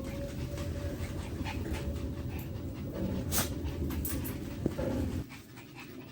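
Pet dogs panting rapidly with excitement, over a low rumble that stops about five seconds in.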